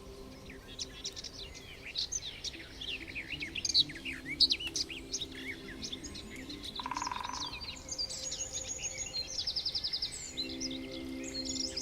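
Several songbirds singing and chirping together in woodland, a dense mix of short high notes and sweeps, with fast high trills in the second half. A low steady drone of tones runs underneath.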